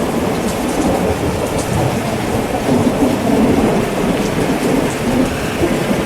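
Heavy rain pouring steadily with rolling thunder, the rumble swelling about three seconds in.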